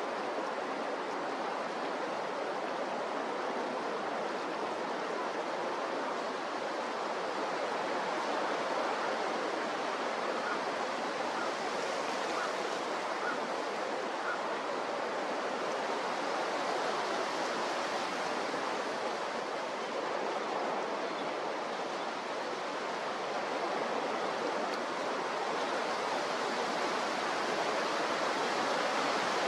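Strong wind and waves making a steady, even rushing noise.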